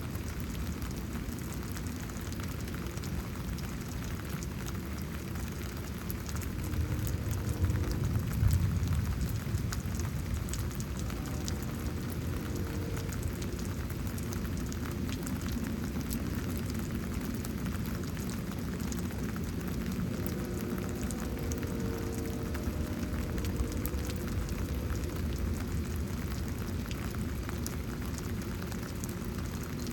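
Steady rain falling and pattering during a thunderstorm. A low rumble swells briefly about eight seconds in.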